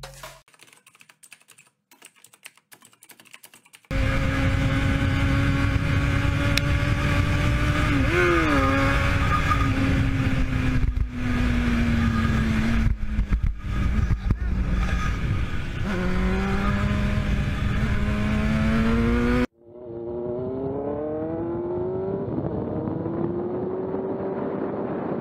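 Sport motorcycle engine heard from the rider's camera, running hard at speed with its pitch dipping and recovering, then climbing again. After a sudden change a few seconds before the end it is a duller engine sound, repeatedly rising in pitch as it accelerates through the gears. The first few seconds are nearly quiet, with faint clicks.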